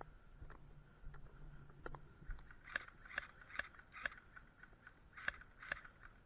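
Faint sharp clicks: four in quick succession, about half a second apart, starting a little under three seconds in, then two more near the end.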